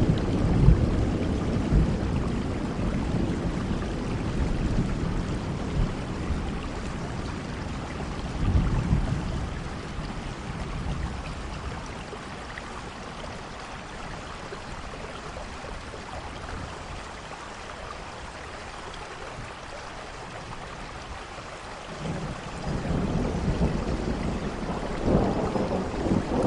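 Steady rain falling, with low rolls of thunder rumbling at the start, briefly about nine seconds in, and again over the last few seconds.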